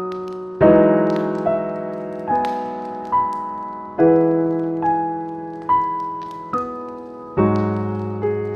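Slow, gentle piano music: notes and chords struck about once a second over a low bass note, each left to ring and fade.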